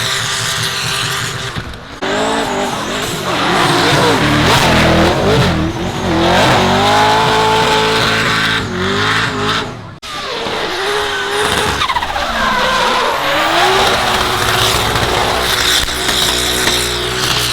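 Drift car engines revving hard through slides, pitch repeatedly rising and falling, over tyre skid noise on a wet track. The sound breaks off abruptly twice, about two seconds in and again around ten seconds.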